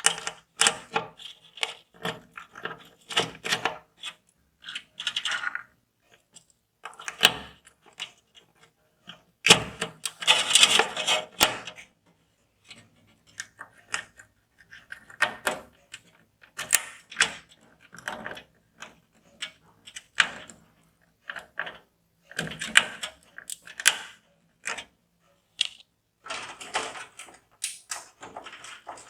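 Computer parts being handled and fitted: an irregular run of clicks, taps and small rattles of hard plastic and metal, with a few longer scraping rustles, the longest about ten seconds in.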